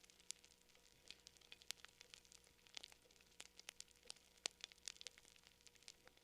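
Campfire crackling quietly, with many irregular sharp pops and snaps, the loudest about four and a half seconds in.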